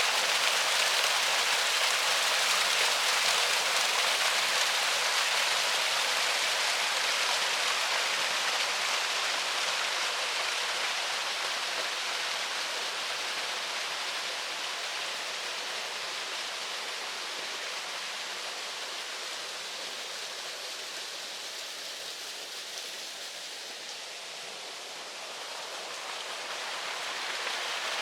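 Flowing river: a steady hissing rush of water that slowly grows quieter over most of the stretch and swells again near the end.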